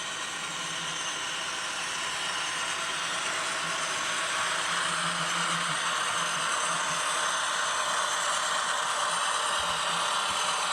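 A train rolling past with a steady, even rattle and rumble that swells slightly over the first couple of seconds.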